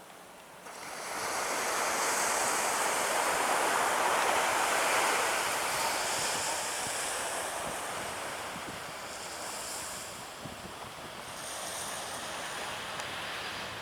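Jet airliner passing close by, a broad engine roar that swells in about a second in, peaks, then slowly fades away.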